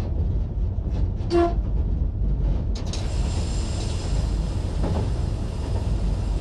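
Diesel multiple unit running along the track, a steady low rumble heard from the driver's cab. A single short pitched beep sounds about a second and a half in.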